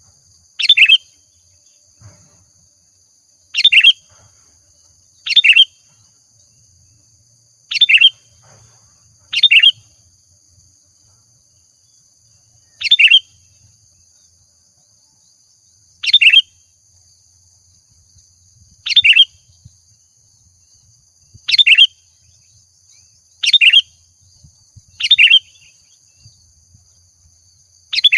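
Sooty-headed bulbul (kutilang) singing in full voice: about a dozen short, loud whistled phrases, each under a second, repeated every one and a half to three seconds, the kind of recording played to lure and set off other bulbuls.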